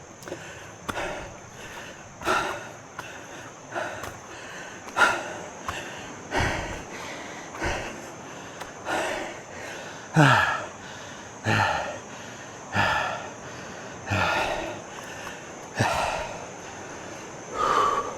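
A man panting hard, with a loud, sometimes voiced gasping breath about every second and a half: out of breath from a steep uphill climb.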